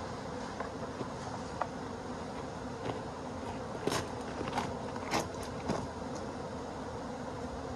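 Large honey bee swarm buzzing steadily, a dense even hum, with a few short clicks and knocks around four to six seconds in.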